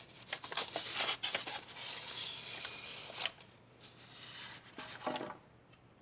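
Packaging being handled as a model locomotive is taken out of its box: rustling and scraping with small clicks, which die away about five seconds in.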